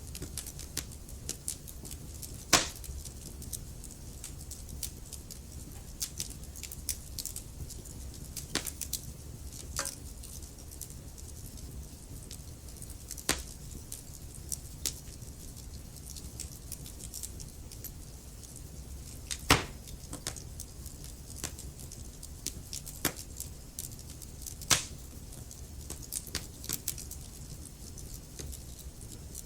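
Wood fire crackling in a fireplace: a constant scatter of small crackles, with four loud sharp pops spread through it, over a low steady rumble.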